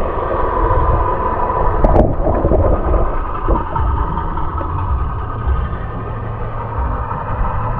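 Boat motor running steadily at low speed, a constant low rumble with a steady whine over it. A single sharp knock about two seconds in.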